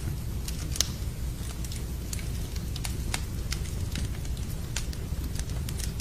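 Wood fire in a fireplace crackling: irregular sharp pops and snaps, one louder pop about a second in, over a steady low rumble.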